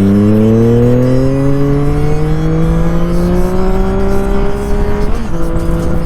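Triumph Street Triple 660 S three-cylinder engine breathing through an SC-Project exhaust, pulling hard with its pitch rising steadily for about five seconds. Near the end there is a quick upshift, and then it runs steady at lower revs.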